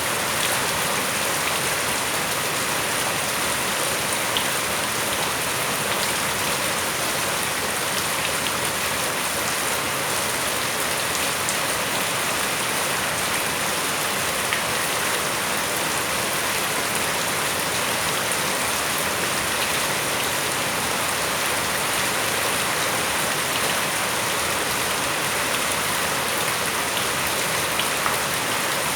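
Steady rain falling on surfaces, a constant even hiss with a few faint drop ticks.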